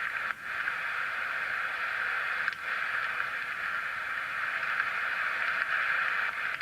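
Steady hiss like radio static, held in a narrow mid-pitched band, briefly dropping out twice, once near the start and again about two and a half seconds in.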